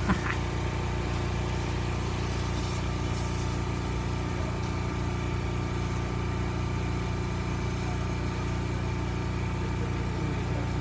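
Steady rumble and hum of a moving train, heard from aboard one of its passenger coaches.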